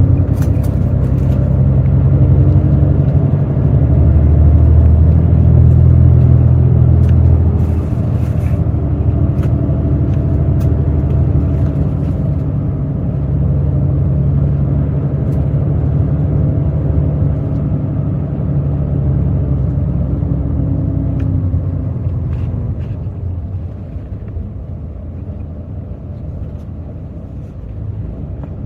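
Hino J08E-VD inline-six turbodiesel of a Hino RN8JSVU bus running under way, heard from inside the cabin. It pulls hardest for the first seven seconds or so, then eases to a steadier, lighter running, and drops lower and quieter near the end as the bus slows. Light cabin rattles ticking now and then.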